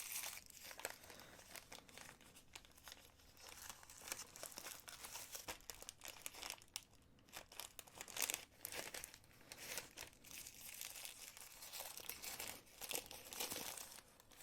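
Packaging crinkling and rustling in irregular handfuls, with small clicks, as packets of jewelry clasps are opened and handled.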